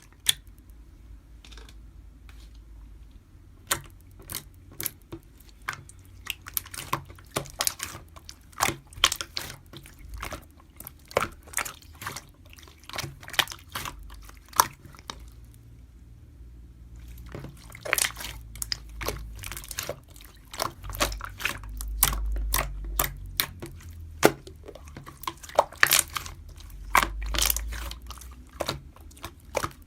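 Irregular sharp clicks and crackles close to the microphone, thicker in the second half, over a steady low hum.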